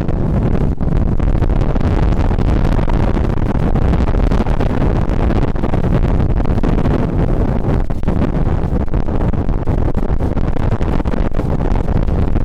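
Strong wind buffeting the microphone through its furry windshield: a loud, steady, low rumble that flutters in level.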